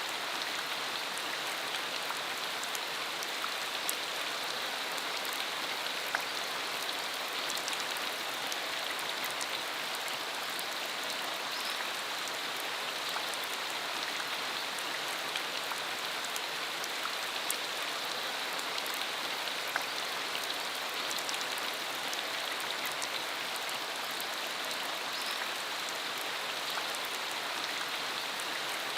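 Steady rain falling, an even hiss with many small scattered drop ticks and no thunder.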